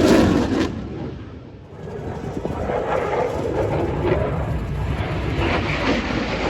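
Aircraft engine noise as a loud rumbling roar. It fades about a second in, then a steady rough rumble comes back and continues.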